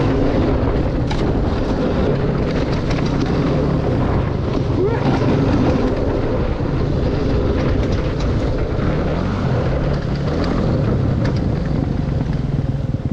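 Dirt bike engine running as it is ridden along a trail, its pitch swelling and dropping about five seconds in, with wind noise on the microphone.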